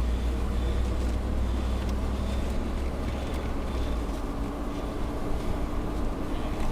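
Steady low rumble of a car's engine and tyres heard from inside the cabin while it drives slowly, easing off a little about four seconds in.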